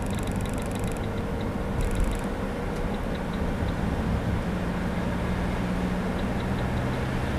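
Steady rumbling vehicle noise, with faint high-pitched ticking that comes and goes.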